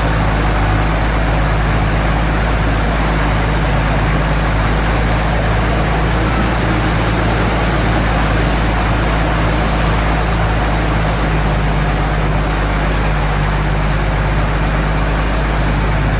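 A vehicle engine running steadily: a constant low hum with a noisy hiss over it, starting abruptly.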